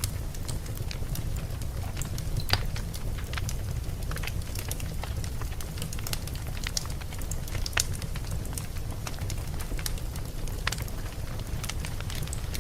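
Campfire burning steadily, with frequent sharp crackles and pops from the wood over a low rumble; the loudest pops come about two and a half seconds in and again near eight seconds.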